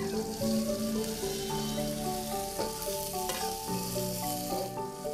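Sliced chillies, shallots and garlic sizzling in a wok as a metal spatula stirs them, with a few clinks of the spatula against the pan; the sizzle dies down near the end. Light background music plays underneath.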